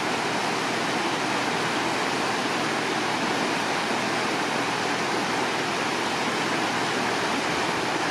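Steady rush of river water flowing, an even noise that does not change.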